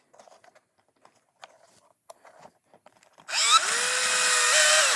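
Cordless drill driving a screw: a few faint handling clicks, then a little past three seconds in the motor spins up, rising in pitch, and runs steadily for about a second and a half before stopping.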